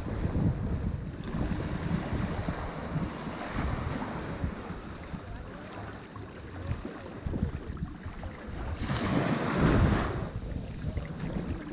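Ocean surf breaking on a shore, with a steady low rumble and a louder wave washing in near the end, and wind buffeting the microphone.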